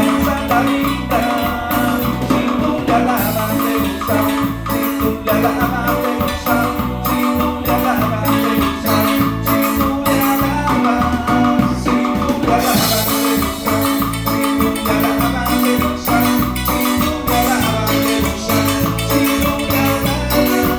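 Instrumental cumbia: a marimba-like melody over bass and percussion, with a rattle or maraca keeping a steady beat.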